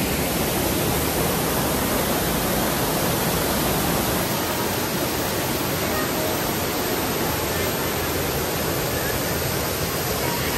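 Waterfall pouring, a steady loud rush of water.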